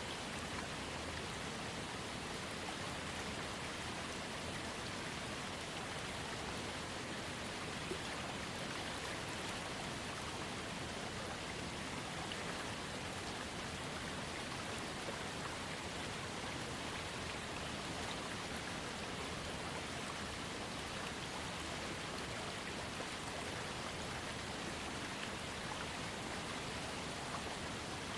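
Small waterfall fed by a trickling creek, splashing and running steadily with no change.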